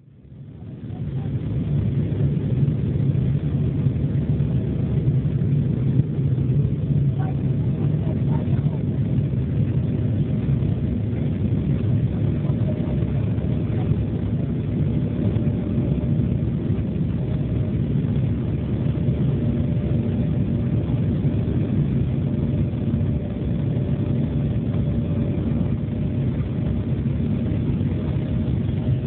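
Steady low rumble of an Embraer E-175 jet airliner in flight, its twin turbofans and the airflow heard from inside the cabin, with a faint steady hum above it. It fades in over the first second.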